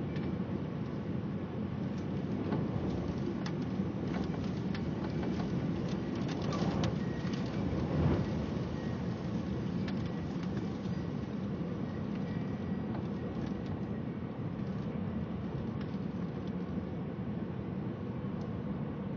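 Steady rain and wind noise in a severe thunderstorm. Scattered drops tick sharply on a nearby surface through the first half, and there is a brief louder low thump about eight seconds in.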